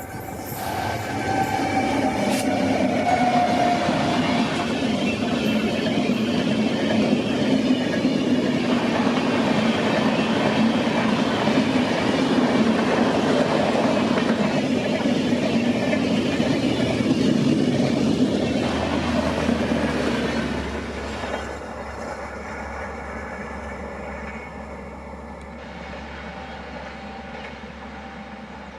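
Express train of LHB passenger coaches rolling past on a curve, the wheels running on the rails with a steady, loud rolling noise. About 20 seconds in, the last coach goes by and the sound drops to a quieter, fading rumble.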